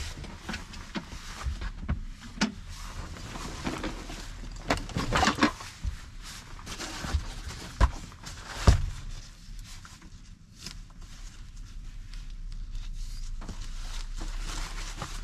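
Irregular taps, knocks and rustling inside a parked car's cabin, with two sharper knocks around eight and nine seconds in. A low steady hum comes in just after the second knock.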